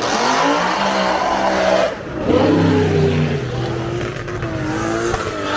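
Drag-racing car engine accelerating hard down the strip, its pitch climbing, dropping briefly about two seconds in, then climbing again before levelling off.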